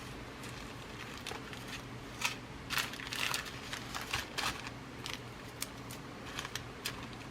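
Glass seed beads and their packaging being rummaged through by hand: irregular rustling and small clicks, busiest in the middle and again near the end, over a faint steady low hum.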